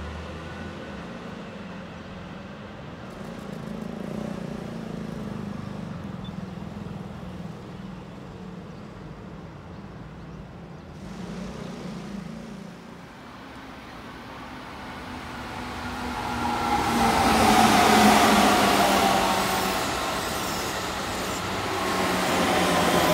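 Keihan electric train passing close on the nearest track: a low rumble for the first half, then wheel and motor noise swelling to its loudest about two-thirds of the way in, with a falling whine.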